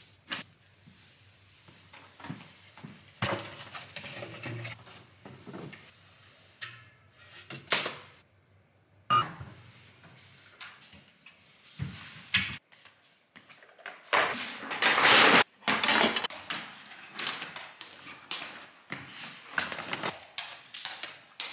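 Large paper shopping bags rustling and crinkling as they are carried and set down, with scattered knocks of items being put down; the loudest stretch of rustling comes a little past the middle.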